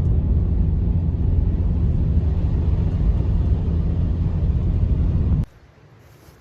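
A loud, steady low rumble that cuts off abruptly about five and a half seconds in, leaving only a faint background.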